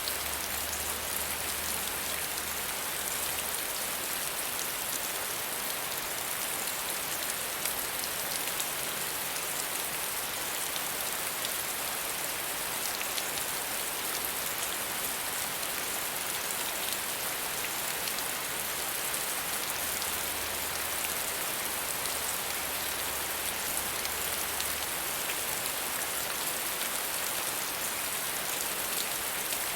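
Gentle, steady rain falling on a surface: an even hiss dotted with many fine droplet ticks.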